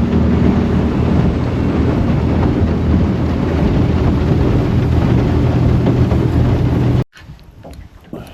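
Boat motor running steadily under way, with wind rushing on the microphone. It cuts off suddenly about seven seconds in, leaving faint clicks and handling noise.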